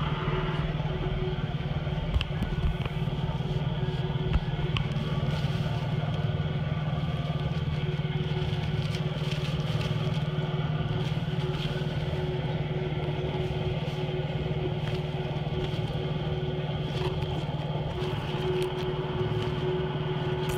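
A vehicle engine idling steadily, a constant low hum with a faint steady tone above it, and a few small clicks and rustles near the microphone about two and four seconds in.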